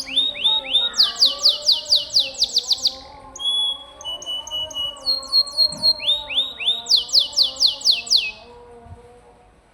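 Domestic canary singing: fast rolled trills of repeated, quickly falling high notes, broken by a few short steady whistled notes, stopping about eight seconds in.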